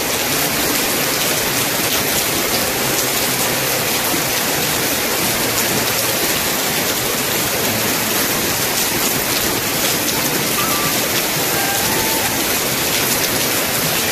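Heavy rain pouring down and splashing on a paved surface: a dense, steady hiss.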